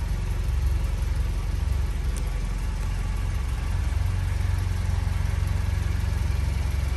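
A 1977 Mini 1000's 998 cc A-series four-cylinder engine idling steadily, a low pulsing rumble that grows slightly louder about four seconds in.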